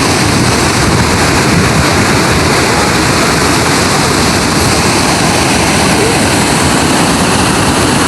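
Loud, steady rush of water falling over a dam, an even noise that does not change.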